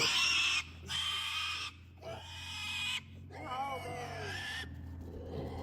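Pig squealing while being held and handled: three harsh, loud screams in a row, then a wavering, higher-pitched cry.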